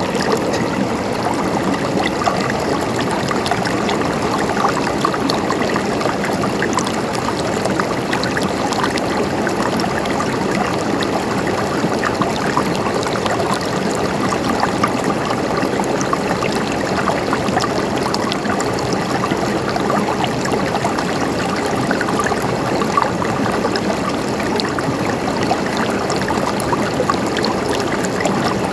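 Water flowing and gurgling over stones in a stream: a steady babbling rush.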